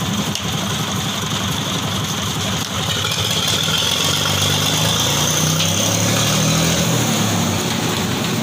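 A machine's engine runs steadily, a low hum with a higher whine above it, growing a little louder about a third of the way in.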